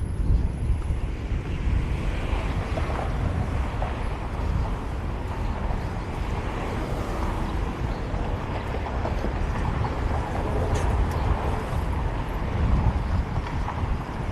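Steady wind noise on an action camera's microphone during a fixed-gear bicycle ride, over a low rumble from the road.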